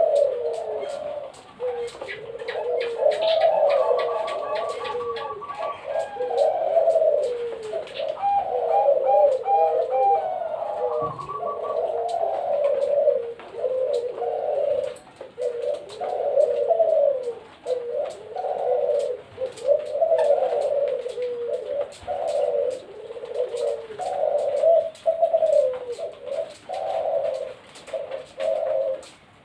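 Zebra doves (perkutut) cooing over and over, a steady run of falling, rolling coos. Some higher chirping notes come in during roughly the first ten seconds.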